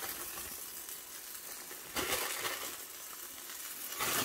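Egg-and-tortilla wrap sizzling steadily in a frying pan. From about two seconds in, light rustling as grated cheese is scattered over the top.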